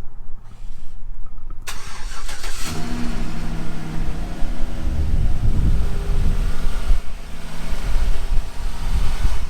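A car engine starts a few seconds in and then runs with a deep, steady rumble.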